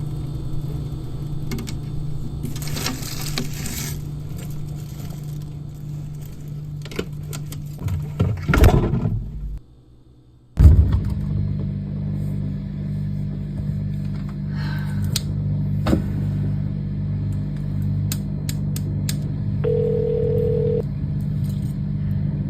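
A steady low hum, which cuts out abruptly for about a second near the middle and comes back suddenly. Near the end a short, steady single tone sounds for about a second.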